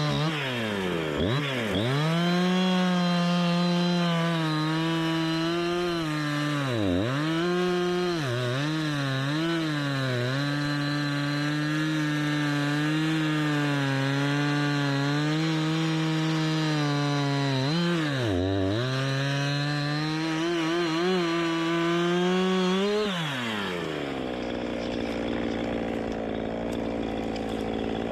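Chainsaw at full throttle cutting through a log, its engine pitch dipping sharply several times as it bogs under load. About 23 seconds in the throttle is released and the saw drops to a steady idle.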